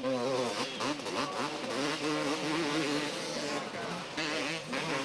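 250cc two-stroke motocross bikes racing, their engines revving with pitch rising and falling as the riders work the throttle.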